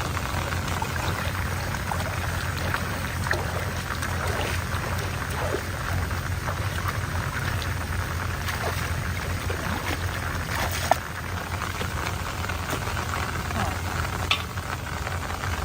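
Steady rain falling, an even hiss with many small drop ticks and a couple of sharper taps.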